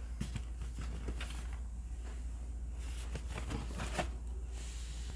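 A shoebox and its paper being handled by hand: irregular light rustles, taps and scrapes, busiest in the first second and a half and again toward the end, with one sharper tap near the end, over a steady low hum.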